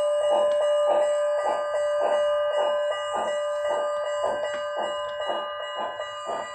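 HO scale Southern 4-6-2 Pacific model steam locomotive's sound decoder playing steam exhaust chuffs, about two a second, with the locomotive bell ringing over them, from the model's small onboard speaker. The sound fades slowly toward the end.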